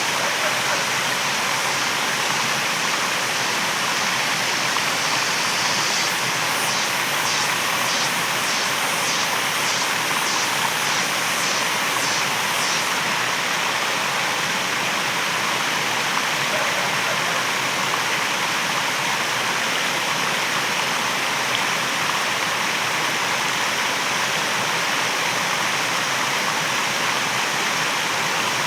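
Waterfall rushing in a steady, dense roar of falling water. From about six to thirteen seconds in, a rapid series of high-pitched pulses, roughly two a second, sounds over it.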